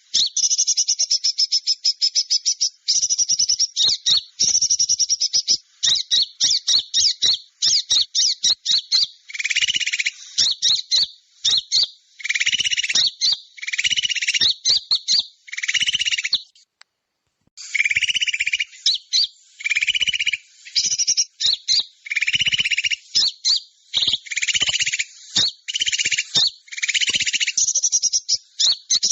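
Small-bird lure recording: fast, high chirping and twittering from small songbirds, joined from about nine seconds in by repeated short, lower calls, each lasting well under a second. A brief silence falls a little past halfway.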